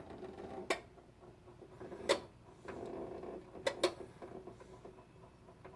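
Whirlpool direct-drive washing machine running with a steady hum, broken by four sharp pops or clacks, the last two close together. These are the grinding, popping fault noises of a washer that spins but won't drain.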